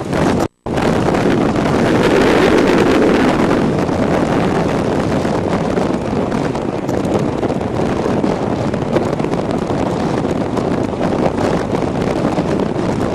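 Wind buffeting the microphone of a moving e-bike, a steady rushing noise. The sound cuts out completely for a split second about half a second in.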